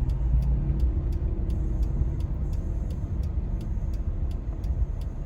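1999 Lexus RX 300's V6 idling rough in drive, heard from inside the cabin as a steady low rumble: cylinder 6 is misfiring, which the owner puts down to a bad ignition coil. A regular light ticking, a few ticks a second, runs over it.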